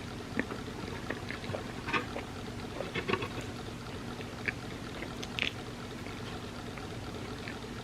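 Close-miked eating of a soft, creamy crepe cake: scattered wet clicks and smacks of chewing and mouth sounds, a few louder ones now and then, over a steady low hum.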